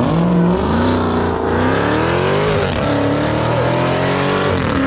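A car engine revving hard under acceleration: its pitch climbs for about two seconds, drops about three seconds in, then holds high and steady.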